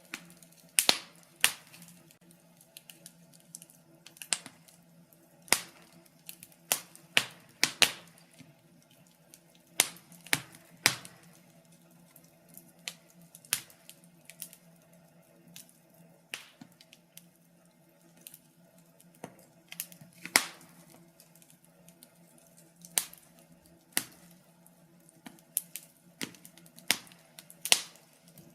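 Wood fire burning in a fireplace, crackling and popping: sharp, irregular snaps a few times a second, some much louder than others, over a faint steady hum.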